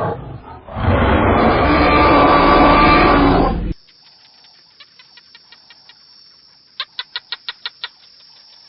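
Loud animal calling, rough and noisy, that cuts off suddenly a little under four seconds in. A quiet stretch follows, with a quick run of about ten sharp clicks near the end.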